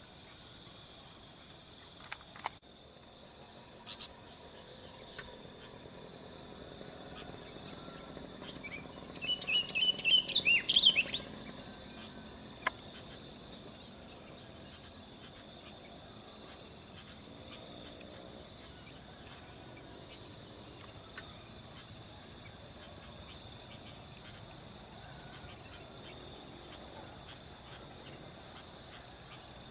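Steady, pulsing chirring of insects, with a short burst of whistled bird song from a sooty-headed bulbul about ten seconds in, the loudest sound.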